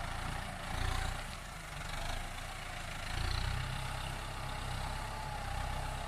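Kubota M9540 tractor's four-cylinder diesel engine running, its low rumble swelling and easing, with a faint steady whine above it.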